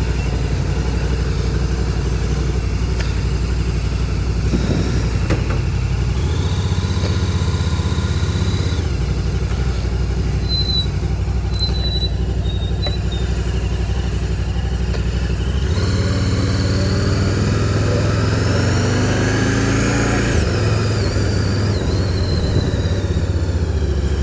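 Can-Am Spyder three-wheeled motorcycle's engine running under way, its pitch stepping up and down as it pulls away and changes speed, climbing steadily in the last third.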